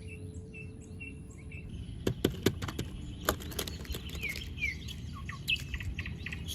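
Faint chirping, like small birds, with short repeated high notes, then from about two seconds in a scattered run of sharp clicks and taps.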